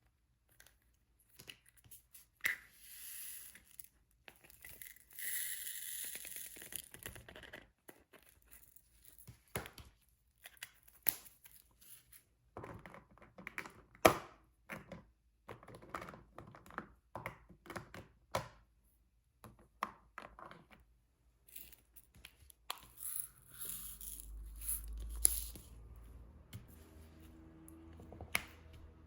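Diamond painting handwork: a few stretches of crinkling, peeling sound from the plastic cover film on the canvas, with scattered light taps and clicks of the drills and applicator pen between them.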